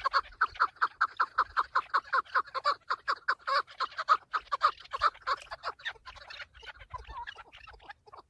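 Chukar partridge calling: a rapid, rhythmic series of short clucking notes, about six a second, that thins out and grows fainter after about six seconds.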